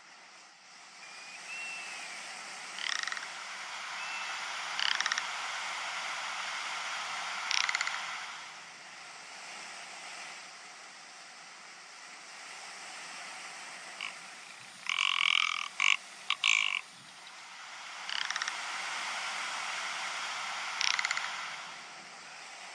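Ptarmigan giving short, dry rattling calls, about six over the stretch, with the loudest a quick run of three or four about two-thirds of the way through, over a steady hiss.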